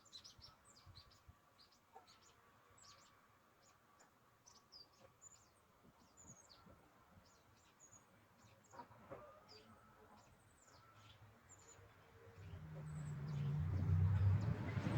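Small birds chirping repeatedly in short high-pitched notes, faint, with a few soft knocks. Music fades in near the end.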